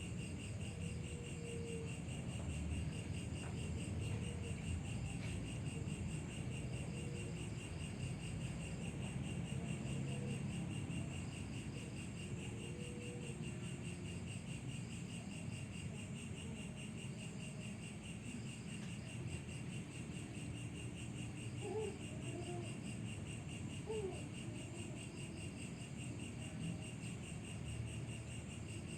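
Crickets chirping in a steady, continuous high trill over a low background rumble, with two brief faint rising calls in the last third.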